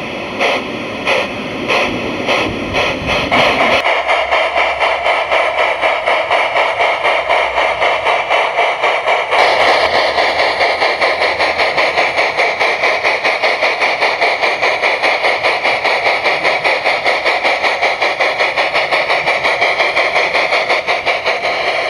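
Steam sound card of a gauge 1 Märklin Gt 2x4/4 Mallet tank locomotive playing exhaust chuffs as the locomotive pulls away. A few slow, separate chuffs at first quicken within about four seconds into a fast, even beat over a steady steam hiss.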